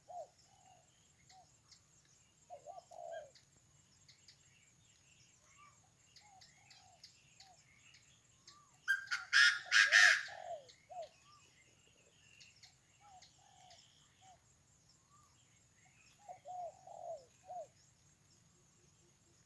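Morning jungle bird chorus: groups of short low calls repeating every few seconds and many small chirps, with one loud harsh call about halfway through. A steady high-pitched drone runs underneath.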